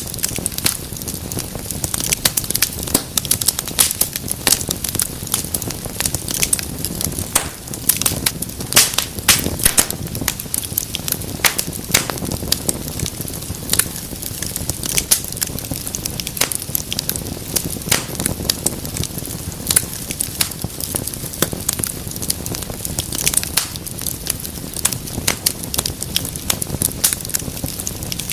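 Fireplace fire crackling, with frequent irregular sharp pops and snaps over a steady low rush of the flames.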